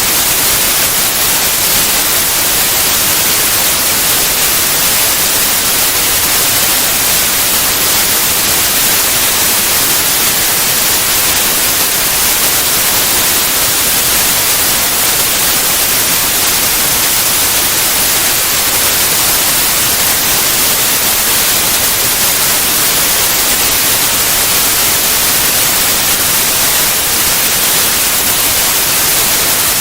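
Synthetic white noise: a steady, even hiss with the most energy in the high frequencies, unchanging throughout.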